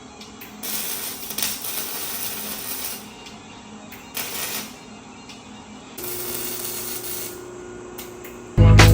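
Exhaust shop tools working on the car's exhaust pipe: metal clinking, and bursts of hissing tool noise a few seconds long, the last with a steady hum under it. Loud hip hop music cuts in just before the end.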